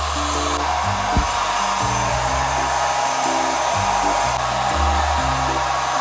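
ReFa Beautech hair dryer running steadily: a constant rush of air with a faint whine, over background music with a bass line.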